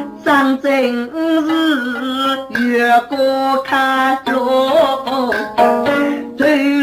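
A Wenzhou drum-song (guci) performer singing a verse of the ballad in a bending, ornamented line, with short struck accompaniment notes between the sung syllables.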